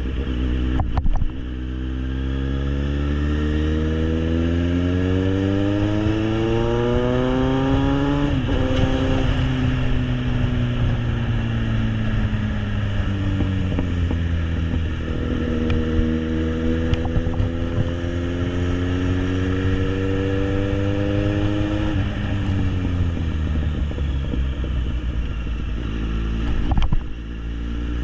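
Kawasaki Z800's inline-four engine through an SC Project aftermarket exhaust, pulling hard with its pitch rising for several seconds, then dropping sharply about eight seconds in as it shifts up. It eases off and falls slowly, builds again more gently, and drops once more near the end, with short loud bursts about a second in and near the end.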